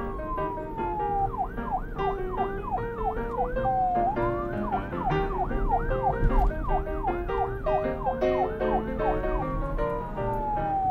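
Siren over background music with a melody: a slow falling wail, then a fast yelp of rising sweeps about three a second, returning to a slow falling wail near the end.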